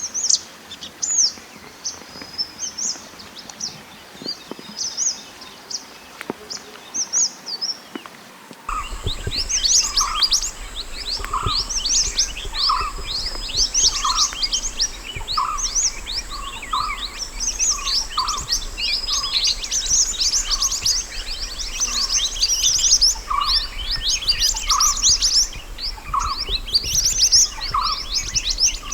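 Mantenan gunung birdsong: rapid, high, twittering chirps. About nine seconds in, a louder and denser stretch begins, with a faint hum underneath and a lower note repeating about once a second amid the chirps.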